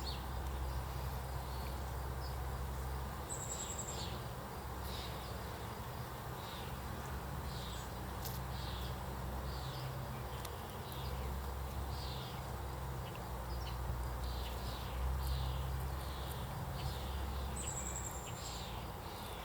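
Honey bees humming at an open hive during a frame inspection: a steady low hum that swells and dips.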